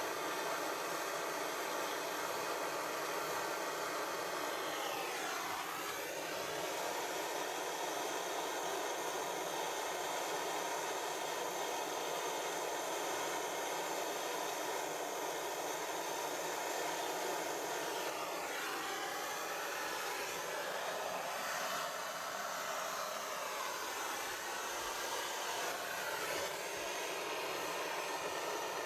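Gas blow lamp burning with a steady rushing hiss while it heats a joint for silver soldering. Its tone sweeps down and back up a few times, around six seconds in and again in the last third.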